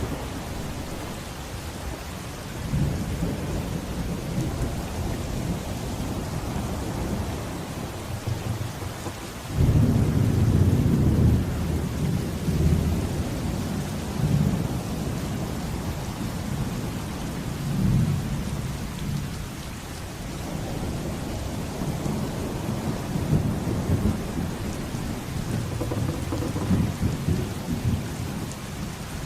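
Steady rain with thunder rolling through it. A louder roll of thunder breaks in suddenly about nine and a half seconds in, and further lower rumbles follow later.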